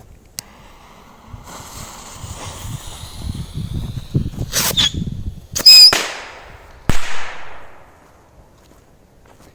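Small whistling firework rockets going off: a hiss with faint whistles builds, then three sharp bangs about 4.5, 6 and 7 seconds in, the middle one loudest and cut through with a shrill whistle, each bang trailing off.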